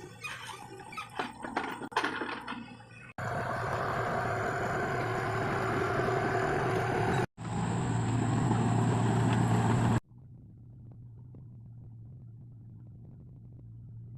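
Engine noise from road-repair machinery or vehicles in several edited clips: irregular knocks and clatter at first, then steady running with a low hum, and a quieter, more distant engine hum in the last few seconds.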